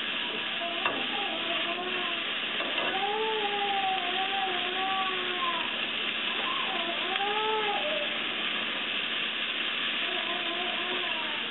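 Pork strips and green pepper sizzling in a frying pan over a gas flame as they are stirred with chopsticks, with a sharp tap about a second in. A high voice sounds in the background now and then.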